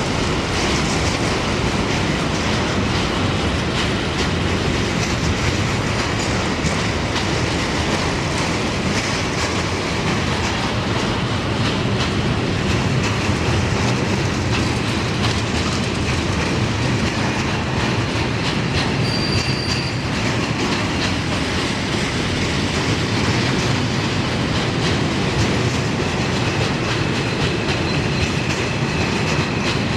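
Train running on the rails: a steady, loud rumble of wheels on track with rail-joint clatter. A short high wheel squeal about two-thirds of the way through.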